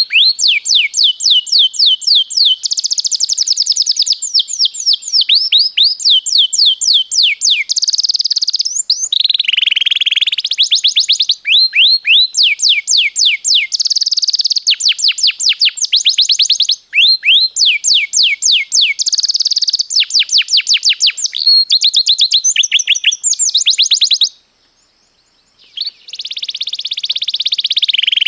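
Domestic canary singing vigorously in long rolls: fast trills of repeated, quickly falling notes, one run after another, with a short pause of about a second and a half near the end.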